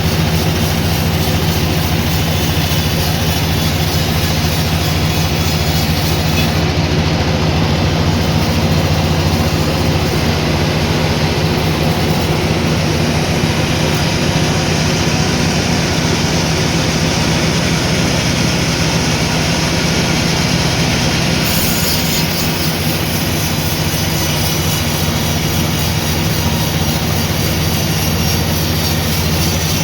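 Sawmill saw and its machinery running steadily, a loud continuous machine noise. The high hiss drops away about seven seconds in and comes back about twenty-one seconds in.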